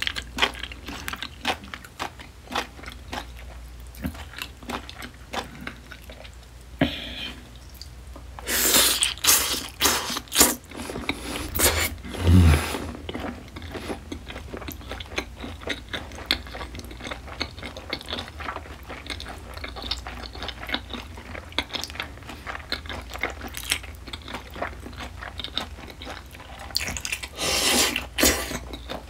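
Close-up chewing of smoked duck and spicy seasoned raw oysters: steady wet mouth clicks and smacks, with a few louder bursts of wet mouth noise.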